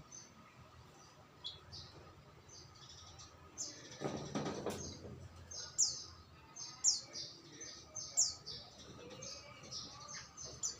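Small songbirds chirping over and over in short, high notes, some sliding down in pitch, with a brief rustle about four seconds in.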